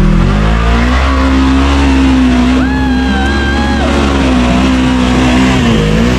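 Side-by-side UTV engine running steadily under load as it works through deep mud. A higher held tone joins for about a second, roughly three seconds in.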